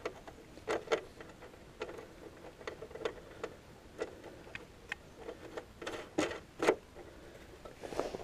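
Irregular light clicks and knocks from hands working the small three-way turnout: rails being lined and the locking knob and plug handled. The louder knocks come about six seconds in, a pair about half a second apart.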